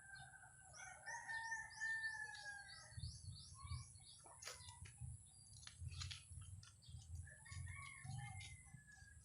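A rooster crowing, one long drawn-out crow that ends about three seconds in, with small birds chirping rapidly over it. Scattered clicks and a low rumble follow, with a shorter call near the end.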